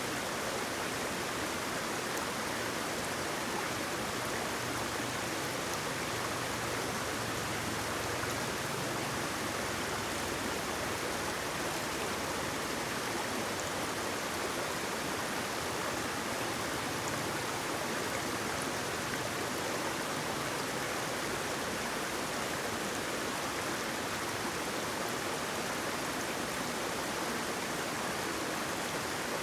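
Steady rushing of falling, flowing water: an unbroken, even hiss with no separate splashes.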